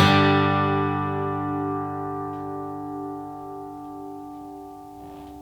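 Bluegrass band's final chord ringing out and slowly dying away after the last strum, with acoustic guitar the most prominent instrument; a faint click comes near the end.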